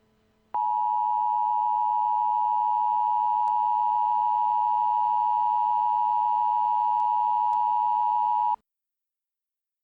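Emergency alert attention tone: one loud, steady, unwavering tone that starts about half a second in, holds for about eight seconds and cuts off suddenly, signalling that a warning message follows.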